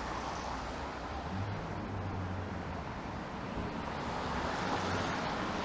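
City street traffic on wet pavement: a steady hiss of tyres with a low engine rumble, swelling as a vehicle passes about five seconds in and then fading.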